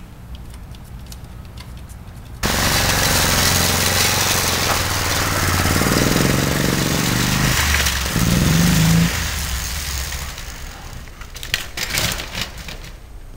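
Gio 125 pit bike's single-cylinder four-stroke engine, cutting in suddenly about two seconds in and running loud, its pitch rising near the end before it drops away, followed by a few sharp clicks.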